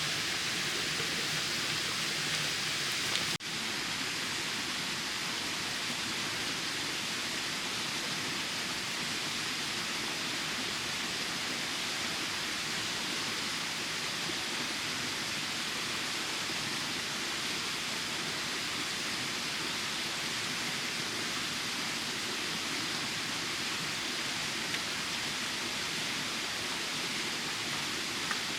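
Steady, even hiss of rushing water, with a brief break just after three seconds.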